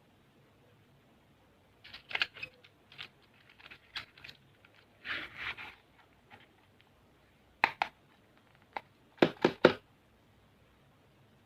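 Plastic candy packets and packaging being handled: crinkling rustles, one longer rustle in the middle, and sharp plastic clicks, three of them loud near the end.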